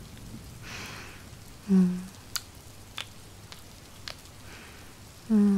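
Steady rain falling, with soft breaths and a brief low hummed vocal sound about two seconds in and again near the end. A few faint sharp ticks fall in the middle.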